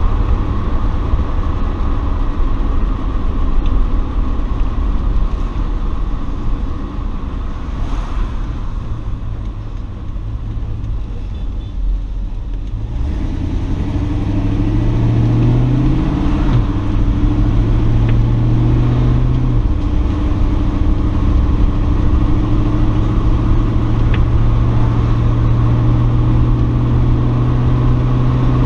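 1980 Chevrolet El Camino's 5.0-litre V8 with Hooker headers, heard from inside the cab while driving. It eases off and quietens for a few seconds, then pulls away, its note climbing and dropping back twice as the TH-350 automatic shifts up, and settles to a steady cruise.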